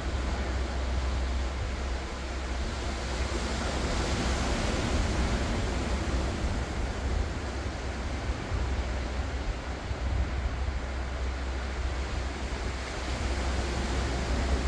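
Ocean waves breaking and washing in, a steady rush that swells and eases, with a low rumble of wind on the microphone.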